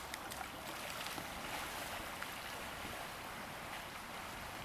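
Steady rushing of river water flowing past, with a few faint small clicks.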